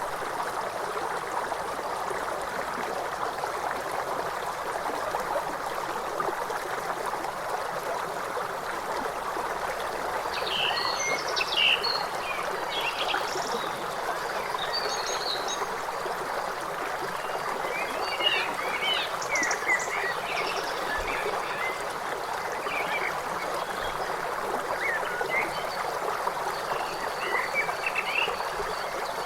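River water running steadily, with birds chirping and calling over it from about a third of the way in, more often toward the end.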